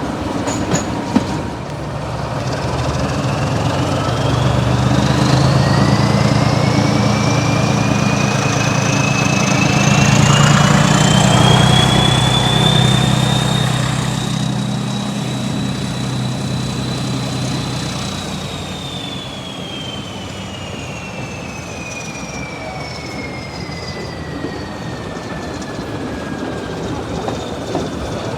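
Class 14 diesel-hydraulic locomotive working a train: its engine note builds as the train gathers speed, with a high whine rising in pitch. Past halfway the engine drops back and the whine slowly falls as the train eases off.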